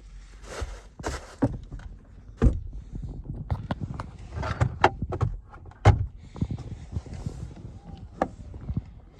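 Clicks and knocks from a car's doors and fittings being handled, with two heavy thumps about two and a half and six seconds in.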